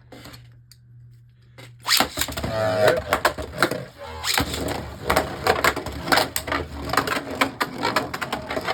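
Two Beyblade Burst tops launched about two seconds in, then spinning and clashing in a plastic stadium: a fast, uneven clatter of sharp clicks and knocks.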